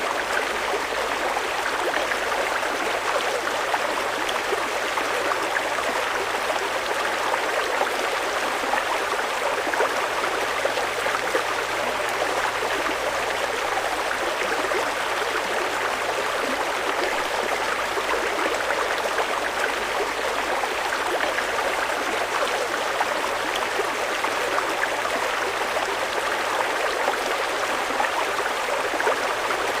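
Fast-flowing mountain river rushing steadily over rocks, an even, unbroken water noise.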